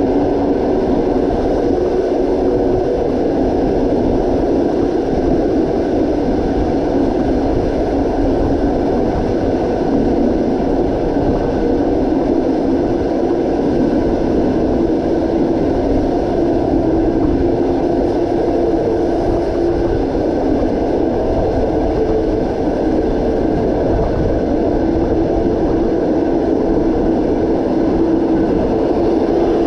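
Passenger train running steadily along the track: a continuous rumble of wheels on rails with a faint steady hum.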